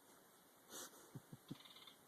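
A small wren-like bird working at the outside of a yurt: a brief scratchy rustle, then three quick soft taps about a second in.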